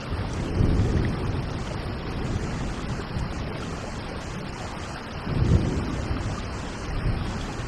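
Steady rain with two low rumbles of thunder swelling up, one near the start and one about five and a half seconds in.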